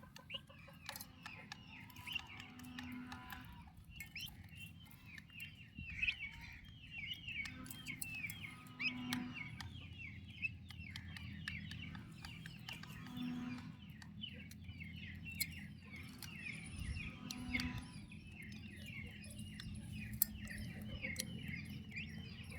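Turkey poults peeping constantly, a dense stream of short, high, falling chirps from many chicks at once.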